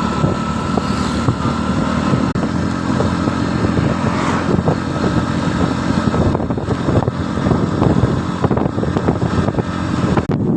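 Motorcycle engine running steadily on the move, with a brief rising sound about four seconds in.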